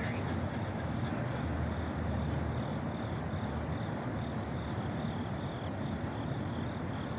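Steady outdoor city background: a low rumble of distant traffic, with a faint high chirping repeating about twice a second.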